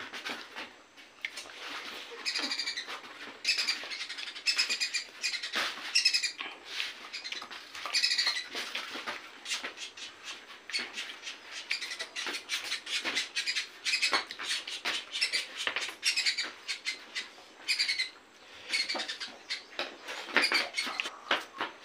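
Close-miked eating: wet chewing, clicks and lip-smacking from a man eating by hand. A bird chirps in short, rapid bursts again and again.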